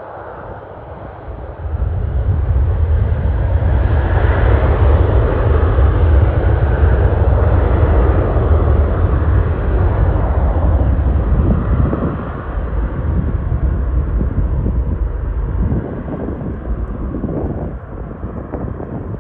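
Boeing 737-800 jet airliner's CFM56 turbofans at takeoff thrust, a heavy rumble that swells sharply about two seconds in, stays loud through the middle and eases off near the end.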